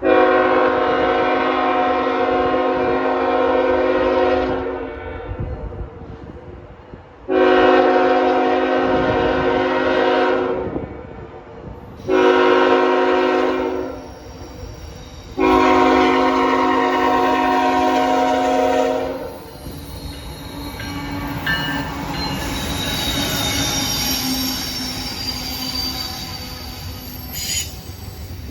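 Locomotive air horn sounding a chord in four blasts, long, long, short, long: the standard grade-crossing signal. After the last blast the train rolls past with steady wheel noise and high wheel squeal.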